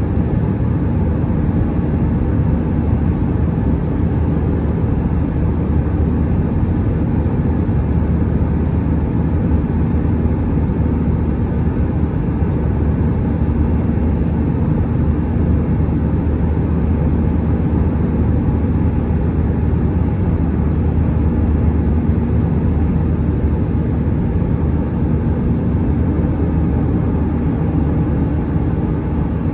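Airbus A320-211 cabin noise heard from a window seat: the steady drone of the jet's CFM56 engines and airflow, even throughout, with a faint steady hum under the rush.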